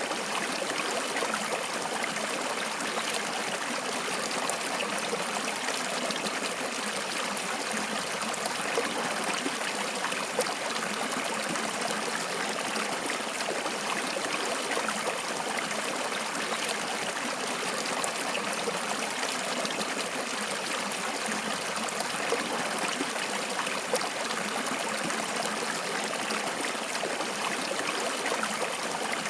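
Water flowing in a steady stream, with a continuous rushing and small splashes and trickles mixed in.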